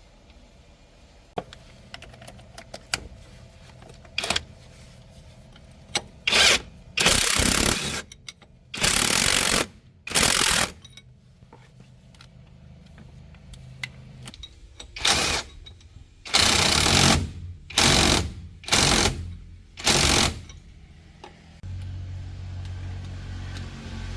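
A pneumatic air tool fired in about ten short bursts of half a second to a second, in two clusters. Near the end a steady low motor hum starts up.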